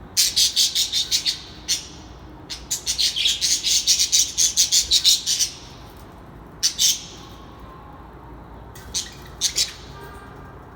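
Birds calling in rapid series of sharp, high chirps: a short run right at the start, a longer run of several seconds in the middle, then two brief bursts near the end.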